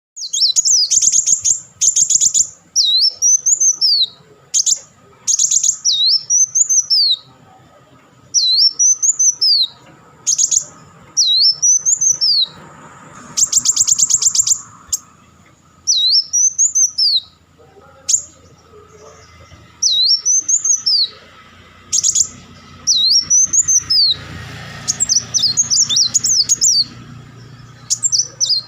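Kolibri wulung sunbird singing: bursts of fast, high chattering trills alternate with a string of sharp, arching whistled notes that rise and then drop in pitch, repeated again and again.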